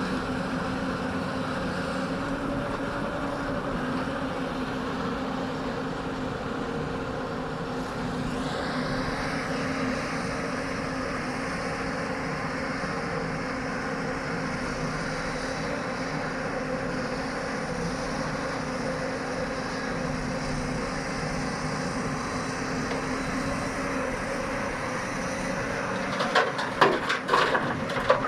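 Hyundai excavator's diesel engine and hydraulics running steadily. About eight seconds in, a whine rises in pitch and then holds. Near the end comes a loud burst of clanks and knocks.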